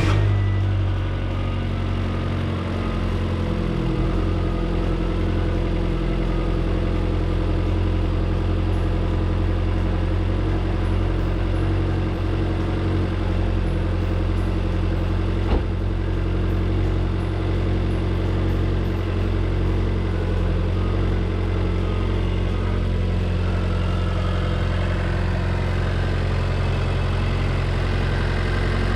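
Abarth 500's 1.4-litre turbocharged four-cylinder idling steadily just after a start, freshly refilled with new oil and a new filter. The idle is slightly higher for the first second, then settles. One sharp click comes about halfway through.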